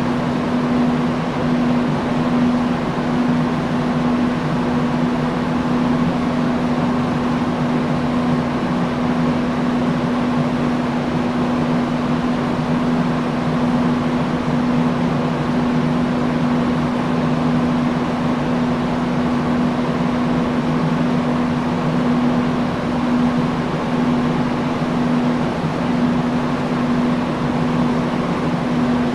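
Industrial fan running steadily: an even rush of moving air over a constant low motor hum.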